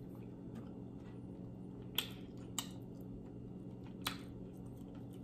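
Close-miked chewing of a soft mouthful of pounded yam with egusi soup, with three short sharp mouth clicks about two, two and a half and four seconds in, over a faint steady hum.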